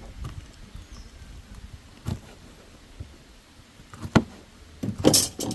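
Cooking utensils knocking against a pot: a few sharp knocks, the loudest about four seconds in, and a short scraping clatter near the end, over a low background rumble.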